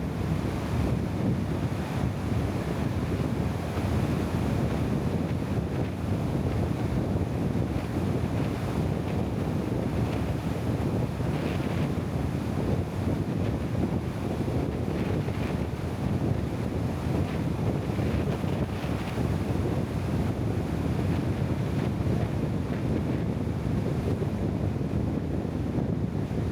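Steady low rumbling noise of wind and motion, even throughout, with no distinct events.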